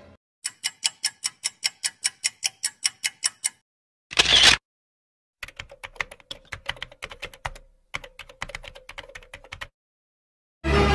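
Typing sound effects: a run of evenly spaced key clacks, about five or six a second, then a short sharp burst. After a brief gap comes faster, irregular keyboard typing over a faint hum.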